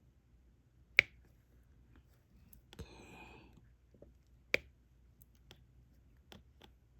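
Diamond painting stylus picking up and pressing resin drills onto the canvas: two sharp clicks, about a second in and again midway, a short rustle between them, and a few faint ticks near the end.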